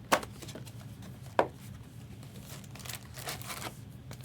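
Trading-card boxes and their plastic wrap being handled: two sharp taps, the second about a second after the first, then a spell of wrapper crinkling.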